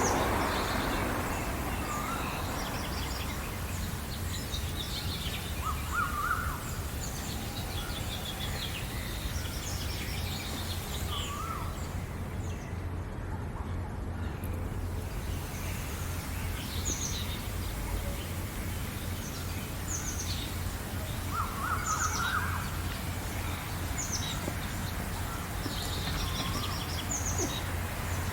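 Wild birds chirping and singing: short high chirps repeat throughout, with a few lower, fuller calls now and then, over a steady low rumble.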